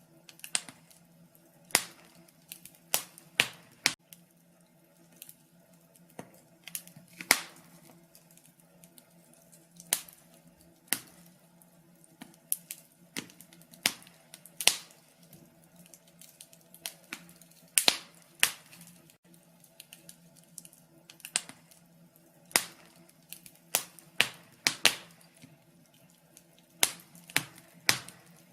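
Wood fire in a fireplace crackling, with irregular sharp pops and snaps, some in quick clusters, over a faint low steady hum.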